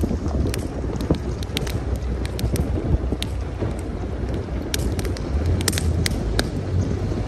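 Campfire crackling, with many short, irregular sharp pops, over a low rumble of strong wind buffeting the microphone.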